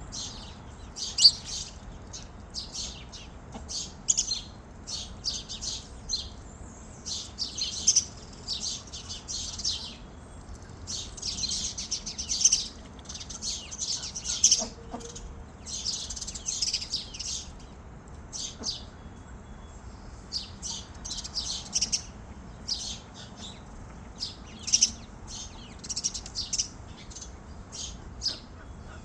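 Small birds chirping, with many quick high chirps in clusters that come and go throughout.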